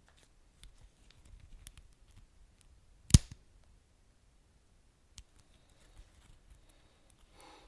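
Wood fire crackling: scattered small pops and snaps, one much louder pop about three seconds in, and a brief soft hiss near the end.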